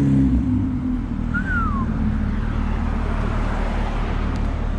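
Steady low rumble of car engines idling, with one short high chirp that rises and falls about a second and a half in.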